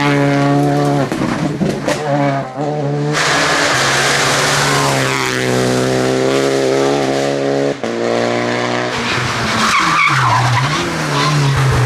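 Rally car engine revving hard on a special stage, lifting briefly a couple of times early on, holding high revs, then cutting sharply at a gear change. Near the end the revs drop and climb again as the car brakes and accelerates away. Tyres skid under the engine.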